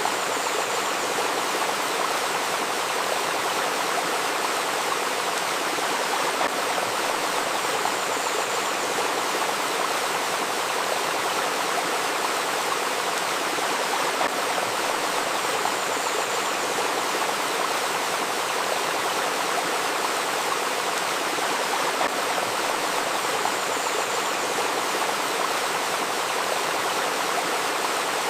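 A shallow river babbling and splashing over stones: a steady, even rush of running water with no break.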